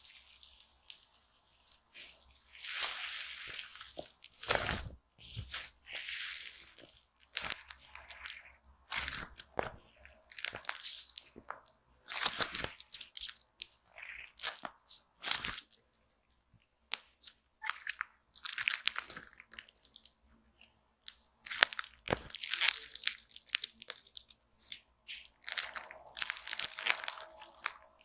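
Slime being handled and squeezed close to the microphone. It makes a dense run of short, irregular crackly bursts, some sharper and louder than others.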